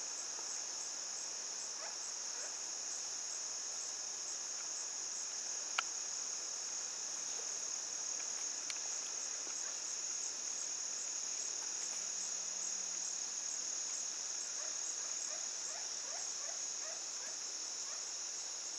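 Steady, high-pitched insect chorus droning without a break, with a single sharp click about six seconds in.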